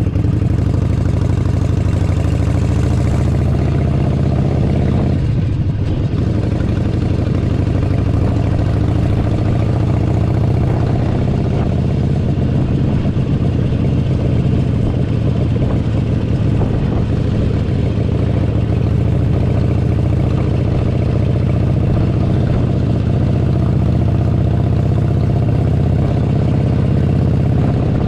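Harley-Davidson Forty-Eight Sportster 1200's air-cooled V-twin engine running steadily while riding, with a brief dip in pitch about five seconds in.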